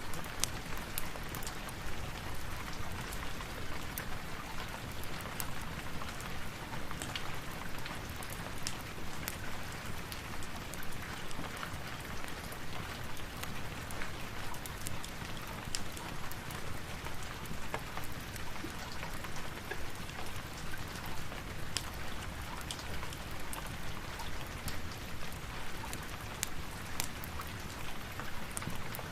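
Steady rain falling, an even hiss with many small sharp ticks and taps scattered through it.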